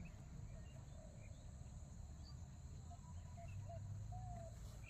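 Faint outdoor ambience: a low steady rumble with scattered short high chirps from small birds or insects.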